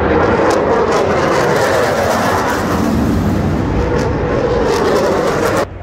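MotoGP racing motorcycle engines running at high revs, a loud dense howl whose pitch wavers up and down; it cuts off suddenly near the end.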